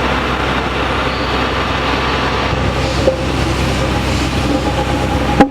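A motor vehicle running steadily, a constant low hum under broad noise, with a short sharp knock near the end.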